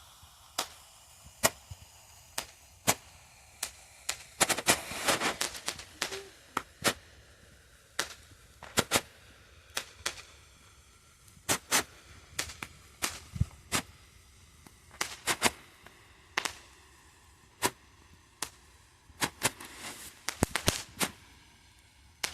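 Firecrackers going off one after another at irregular intervals: sharp pops about one or two a second, with a denser crackling run about five seconds in and again near the end.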